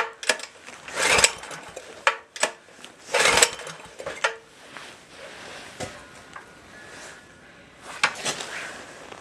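Mini bike's recoil starter being pulled three times, each pull a short whirring rasp about half a second long, with the engine cranking but not catching: a hard-starting engine on year-old gas.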